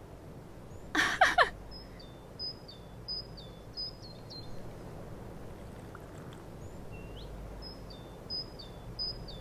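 A small bird chirping over and over, each chirp a short high note that drops to a lower one, in two runs with a pause in the middle. About a second in, a brief louder voice-like sound slides down in pitch.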